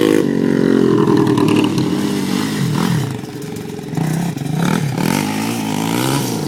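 A small off-road engine being ridden hard, its pitch repeatedly rising and falling as the throttle is worked through the gears. It drops briefly in loudness about three seconds in, then comes back up.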